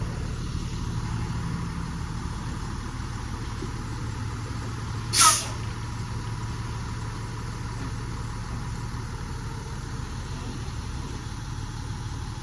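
Large diesel box truck's engine idling steadily, with one short, sharp hiss about five seconds in.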